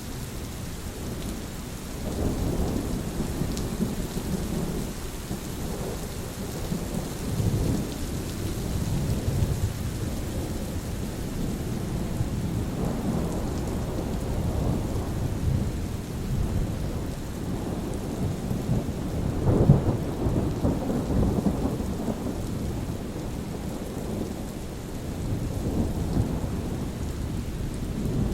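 Steady rain with thunder rolling in low rumbles that swell and fade several times; the strongest peal comes about two-thirds of the way through.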